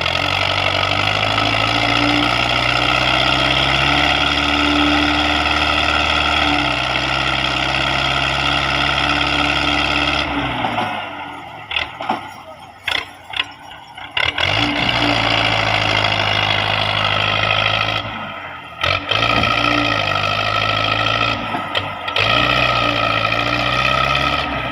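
Belarus MTZ-50 tractor's four-cylinder diesel engine running. It throttles down about ten seconds in and nearly dies away for a few seconds, with some clicks. It then revs back up, dips briefly once more, and runs on steadily.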